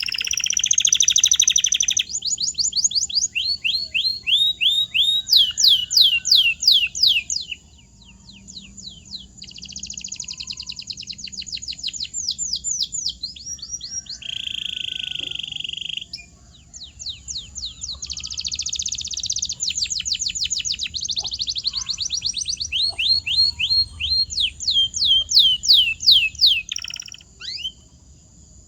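Domestic canary singing: long phrases of fast repeated falling notes, broken by steady rolling trills and a couple of brief pauses.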